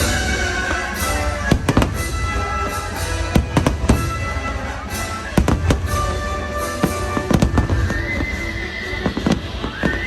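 Fireworks bursting in a string of sharp bangs and crackles, in clusters about every two seconds, over loud music playing throughout.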